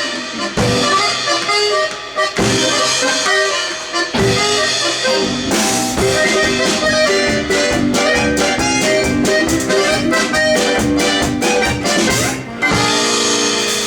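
Instrumental folk music played by a live ensemble, led by accordion with a drum beat. From about six seconds in, a run of fast, even percussive strikes drives the rhythm for several seconds before the band pauses near the end.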